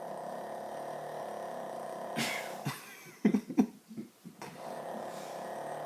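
Sleeping dog snoring: a drawn-out steady snore of about two seconds, then a sharp breath and a run of short rattling snorts, and after a brief pause another long, steady snore.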